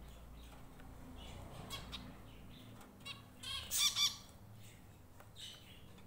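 Small pet birds chirping: a few scattered short calls, then a quick run of sharp, closely repeated chirps, loudest about three and a half to four seconds in.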